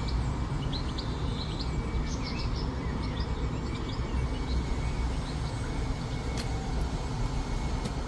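Small birds chirping: many short, high chirps over a steady low rumble.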